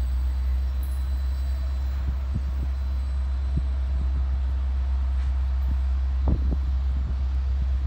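Train running by with a steady low rumble and scattered short low knocks.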